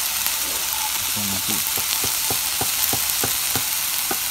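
Chicken strips and sliced bell peppers sizzling in a hot grill pan as they are stir-fried, with a metal spoon scraping the pan in a run of quick strokes, about three a second, in the middle.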